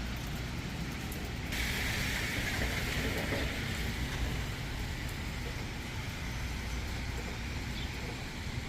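A vehicle passing on a wet street, its tyres hissing on the wet road over a low steady rumble. The hiss comes in about a second and a half in and slowly fades away.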